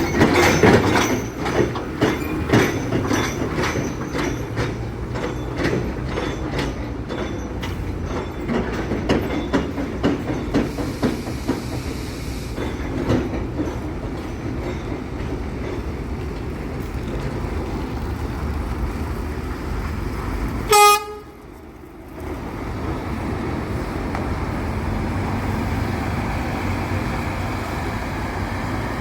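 Scania coach pulling out. Its engine and running noise are steady and loud, with a run of sharp clicks and knocks through the first dozen seconds. About twenty seconds in comes one short horn toot.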